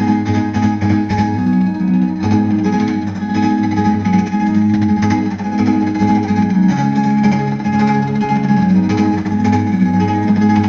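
Guitar strummed in a steady rhythm, the chord changing a few times, an instrumental passage with no singing.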